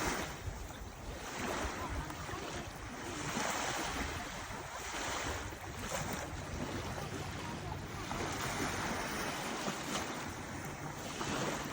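Sea waves washing onto the shore, surging and receding every couple of seconds, with wind rumbling on the microphone.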